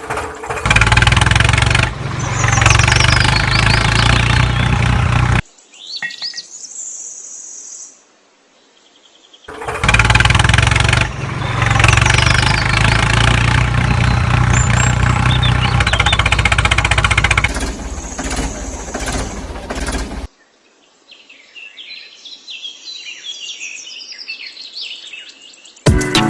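A small engine running in two long stretches, each stopping abruptly, with birds chirping in the quiet gaps between and after.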